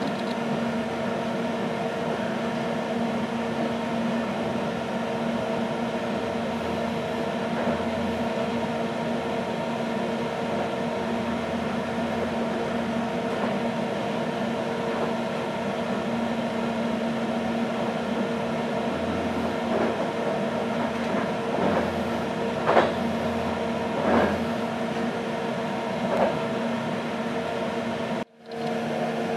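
Inside a passenger railcar at speed: a steady, even running noise with a low constant hum, a quiet ride on welded rail with no rhythmic clickety-clack of rail joints. A few short clicks come in near the end, and the sound drops out for a moment just before the end.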